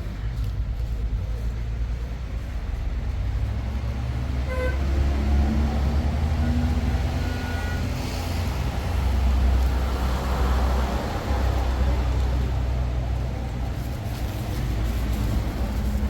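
Vehicle driving on a road: a steady low engine and road rumble, with a short high tone about four and a half seconds in and a louder rush of passing traffic around ten seconds in.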